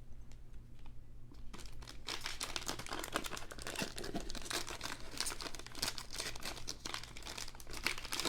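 Foil wrapper of a basketball trading-card pack crinkling as it is handled and opened, starting about a second and a half in and going on as a dense crackle.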